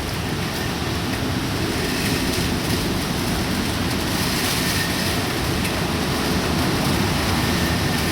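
Typhoon wind and rain: a steady rushing noise with no pauses, growing slightly louder near the end.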